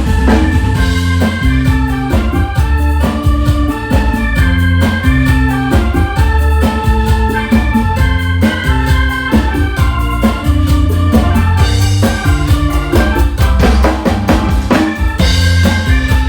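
Drums and an electronic keyboard played as an organ, performing an instrumental piece together: sustained keyboard melody and chords over heavy bass, with a fast, steady drum beat.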